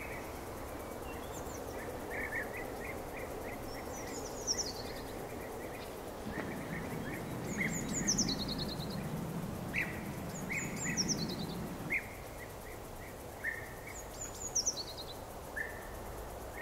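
Outdoor ambience with birdsong: a songbird repeats a short, high phrase that falls in pitch, about every three seconds, among scattered shorter chirps, over a steady background hiss. A low rumble swells for a few seconds midway.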